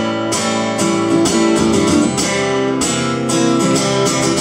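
Acoustic guitar strummed in an instrumental passage between sung lines, chord strokes repeating at a steady pace.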